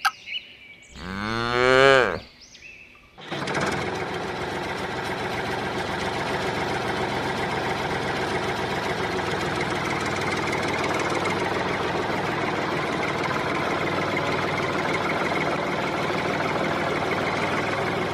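A single cow moo, then about three seconds in a small motor starts and runs steadily.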